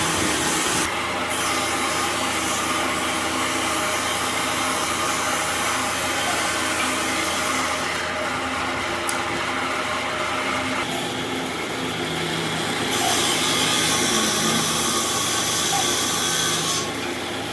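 Electric power tool running steadily and working wood, with a motor hum under a grainy hiss that shifts abruptly several times.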